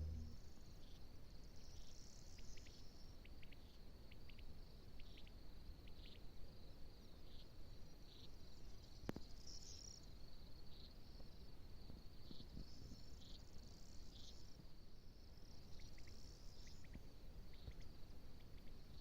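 Crickets chirping: a faint, steady, high-pitched pulsing trill, with brief higher calls over it and a single sharp click about nine seconds in.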